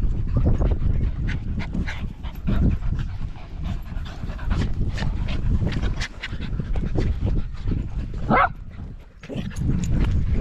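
Dogs panting close by, with one short whine about eight seconds in.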